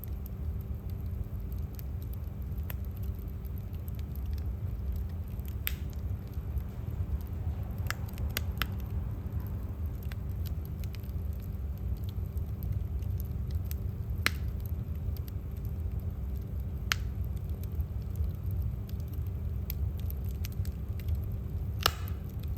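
Wood fire burning in a fireplace: a steady low rumble with sparse, sharp crackles and pops, a few close together about eight seconds in and another near the end.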